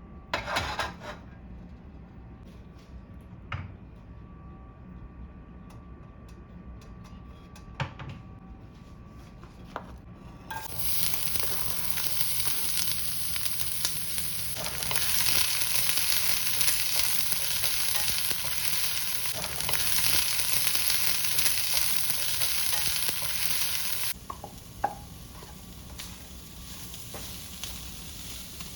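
Food frying in a hot pan: a loud, even sizzle starts suddenly about a third of the way in and cuts off suddenly some seconds before the end. Before and after it, a few short clicks and knocks of kitchen utensils.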